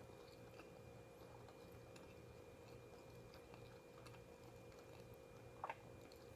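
Near silence: a steady low room hum with a few faint clicks, and a brief double click close to the mic near the end.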